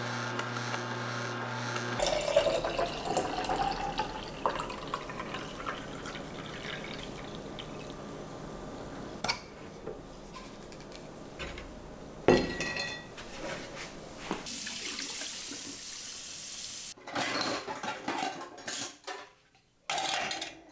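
Kitchen tap running water into a sink, with a rising tone as a container fills, and dishes and utensils clinking now and then. The sounds come in several short cut-together bits.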